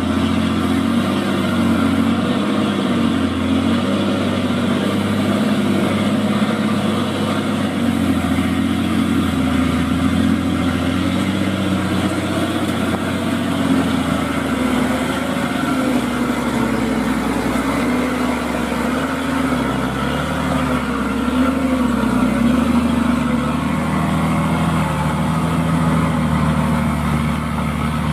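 Heavy truck's diesel engine running steadily under load. The engine note rises and falls slightly as it works.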